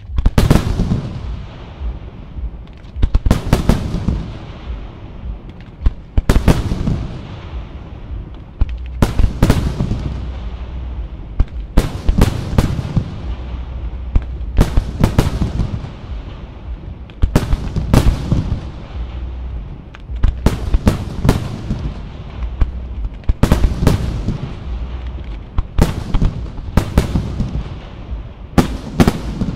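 Aerial firework shells bursting in a steady sequence: a loud bang about every two and a half to three seconds, often two or three in quick succession. Each bang is followed by a low rumbling echo.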